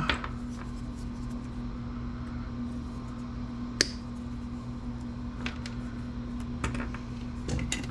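A steady low electrical hum, with one sharp click about four seconds in and a few faint taps as small computer parts are handled.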